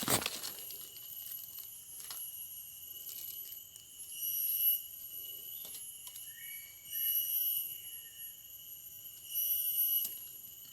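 High-pitched animal calling: a steady ringing tone with a louder call repeated three times, about every two and a half seconds, and faint short chirps in between.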